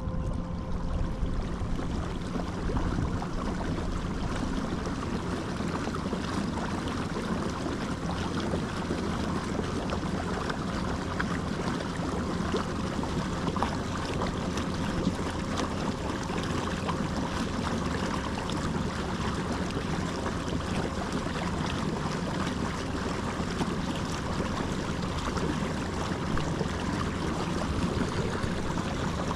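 Steady rushing noise of water and wind around a boat on the water, unchanging throughout.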